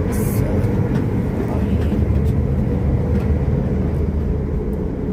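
Cabin noise of a Class 730 electric multiple unit under way: a steady low running rumble with a faint steady hum, and a brief high hiss just after the start.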